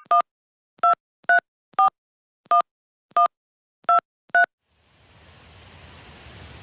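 Touch-tone telephone keypad dialling a number: eight short two-pitch beeps at an uneven pace. Then a steady hiss fades in about five seconds in.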